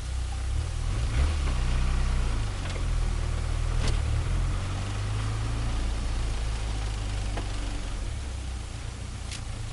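Turbocharged Nissan Micra engine running: the revs rise about a second in, hold, then ease back to a lower, steadier run about halfway through. A sharp click sounds about four seconds in.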